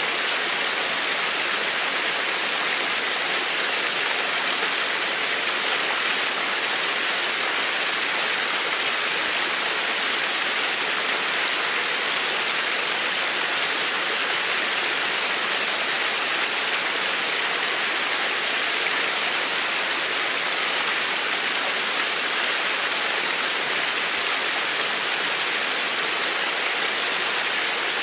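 Steady, even rushing of running water, with no crackles or pops.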